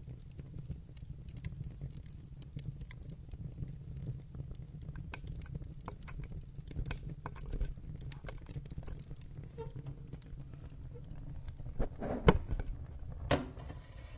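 Wood fire crackling in a fireplace: scattered sharp crackles over a low steady rumble, with a few louder pops near the end.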